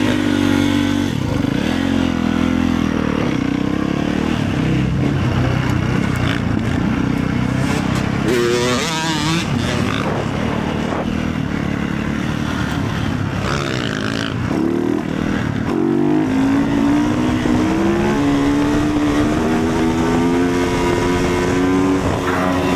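Motorcycle engine running on the move, its pitch rising and falling with the throttle, with a quick climb in revs about eight seconds in and a steadier climb in the second half.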